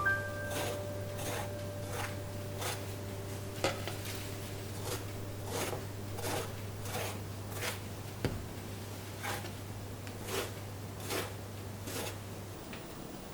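Repeated short scraping strokes of hand kitchen work, about three every two seconds, over a steady low hum that stops near the end.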